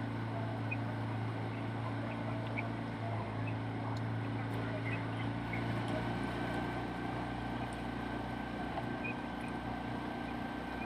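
Motorboat engine running steadily with an even low hum.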